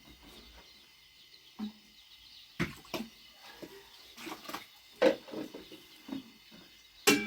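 A few sharp knocks and clatters, four or so spread out, the loudest near the end, over a faint steady background.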